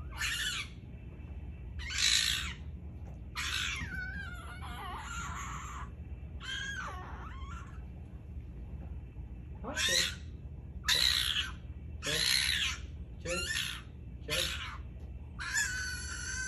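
A young fox giving a series of short, shrill squealing cries, about ten of them, each around half a second long.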